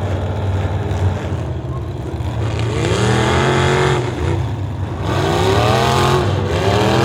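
Race car engine running steadily, then revving up and easing off twice as it accelerates and lifts.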